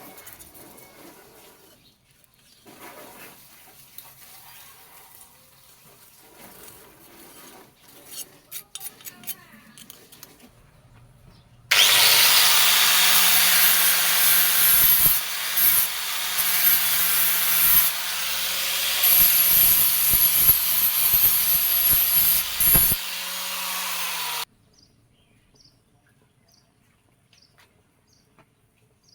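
Electric grinder running against steel for about thirteen seconds, starting abruptly and cutting off suddenly, with a steady motor hum under a loud hiss. Before it, faint scattered knocks and handling noises.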